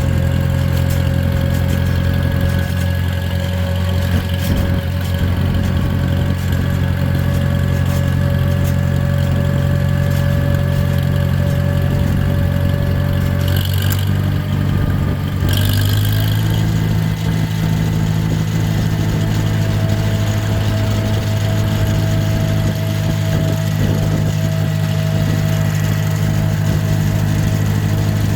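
Oliver 660 tractor engine running steadily under way, its speed picking up slightly about halfway through, with two brief hissing bursts just before.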